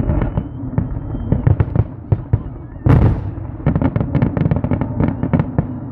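Fireworks display: a rapid run of sharp bangs and crackles, with one louder burst about three seconds in and a thin whistle over the first second and a half.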